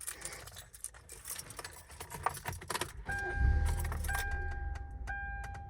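Car keys jangling, then about three seconds in the car's engine starts and runs steadily while a two-tone warning chime sounds about once a second.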